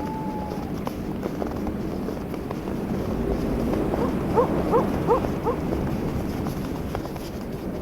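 Footsteps crunching on snow over steady wind noise. About halfway through, an animal gives four short rising calls in quick succession, about two a second.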